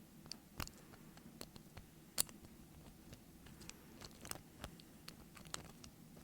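Small, irregular clicks and ticks of a lock pick and tension wrench working the pin tumblers of a doorknob lock, with one sharper click about two seconds in.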